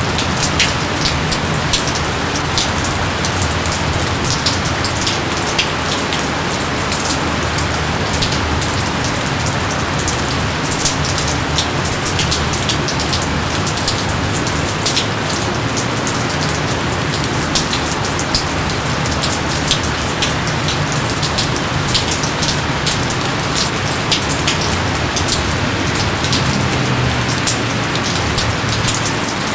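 Heavy rain falling steadily, a dense hiss with many sharp individual drops pattering on leaves and surfaces.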